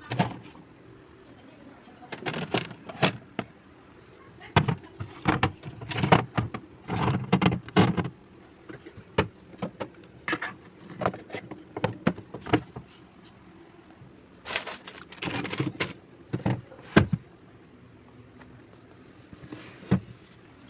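Irregular clinks, knocks and rattles of containers and jars being handled and set down, in clusters with short pauses between.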